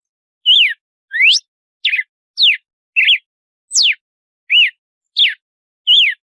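Red-cowled cardinal (galo-de-campina) singing its 'açoite' song: a steady string of about nine short, clear whistled notes, roughly one every two-thirds of a second, each sliding quickly up or down in pitch.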